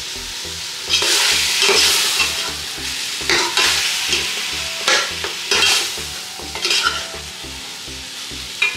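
Seasoned chicken sizzling in hot oil in a soup pot while it is stirred, a spoon scraping through the pieces in repeated strokes roughly once a second.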